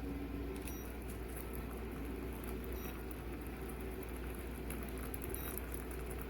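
Stainless steel stovetop kettle heating water, a steady low rumble and hiss with faint irregular patter, not yet whistling.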